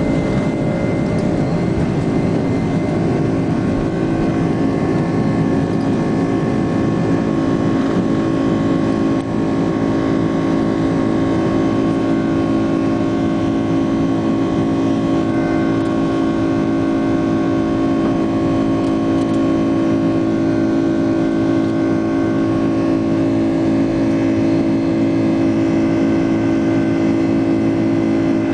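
Airliner's jet engines running steadily at high power during takeoff: a constant rumble with several steady whining tones over it.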